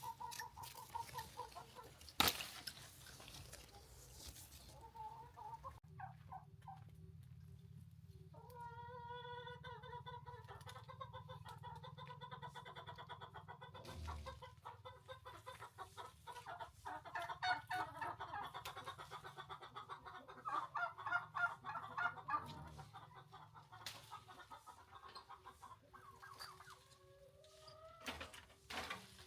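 Chickens clucking on and off, with a sharp click about two seconds in and a few fainter knocks later.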